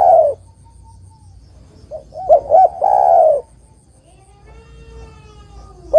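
Spotted dove (tekukur) cooing: phrases of two or three short coos running into a longer drawn-out coo, about every four seconds. A faint gliding whistle is heard between phrases.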